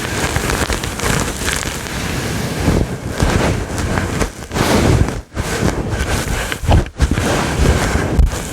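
Fingers scratching hard and fast on a fluffy microphone windscreen right at the microphone, a loud, rough, rustling scrape with brief breaks between strokes.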